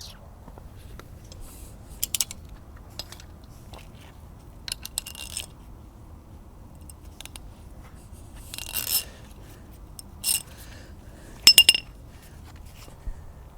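Irregular short metallic clinks and scrapes of small hard objects being handled, some with a brief ringing tone; the loudest is a quick double clink near the end.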